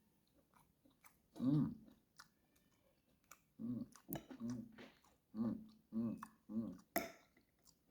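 A man chewing food with his mouth close to the microphone: wet mouth clicks and a run of short, low hums while he chews, heard mostly in the second half.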